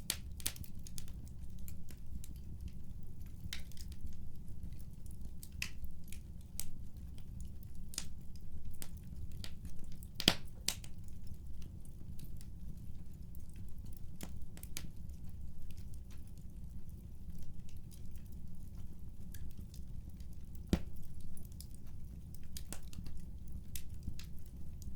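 Wood fire crackling: scattered small snaps and pops over a steady low rumble, with a louder pop about ten seconds in and another about twenty seconds in.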